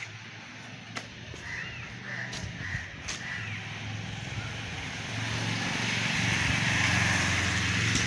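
A bird calls four times in quick succession, short rough calls, over a steady low hum and outdoor background noise that grows louder in the last few seconds.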